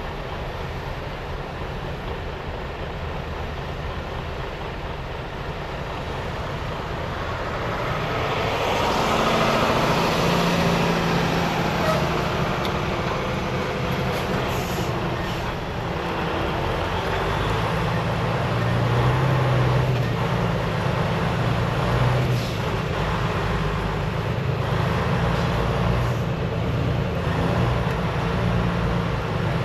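Semi-truck diesel engine running with steady road and cab noise, growing louder about eight seconds in and staying up.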